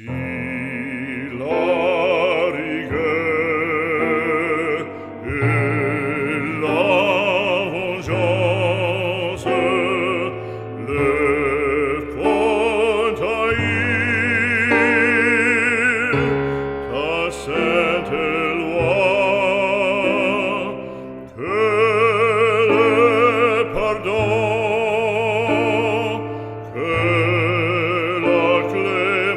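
Operatic solo singing with wide vibrato over slow classical accompaniment, the melody moving in long held notes.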